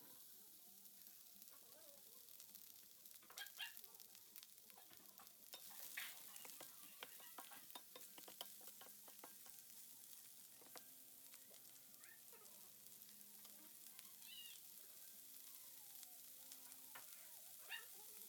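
Faint sizzling of food frying in a hot pan, with scattered clicks and scrapes of a utensil stirring it.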